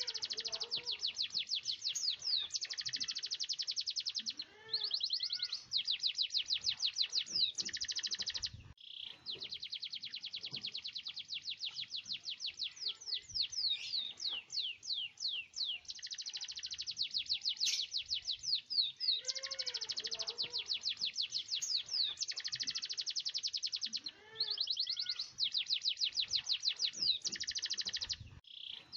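Domestic canary singing long rolling trills of rapidly repeated high notes, phrase after phrase with brief breaks between them.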